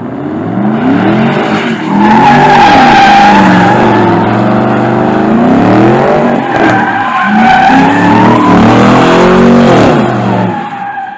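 Chevrolet Camaro SS V8 with a straight-piped exhaust, loud, revving up and falling back in pitch several times.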